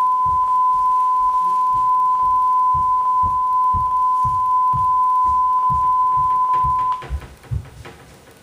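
A steady high test tone plays from the end of the VHS tape with its white screen, under a regular low clicking of about two to three clicks a second. The tone cuts off suddenly about seven seconds in, and the clicking carries on.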